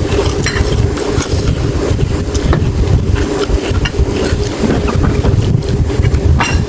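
Close-up eating noises, with short clicks and crunches of chewing, over a steady low rumble and hum that is the loudest thing throughout.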